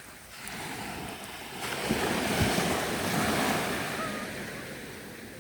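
Ocean wave breaking and washing up the shore: the rush of water swells about two seconds in and fades away near the end.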